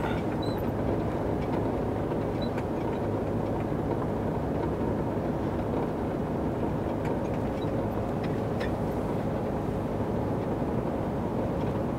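Heavy truck's diesel engine running steadily at cruising speed, with road and tyre rumble, heard from inside the cab while driving.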